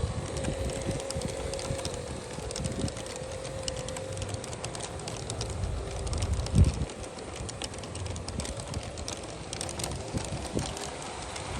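A large-scale model freight train running slowly: the locomotives' motors hum steadily while the wheels click rapidly and irregularly over the track. There is one louder thump about six and a half seconds in.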